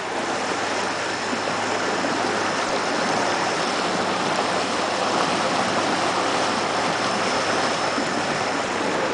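Water rushing steadily along the hull of a bass boat running at about 6 mph under a quiet electric outboard, with a faint steady high tone over it.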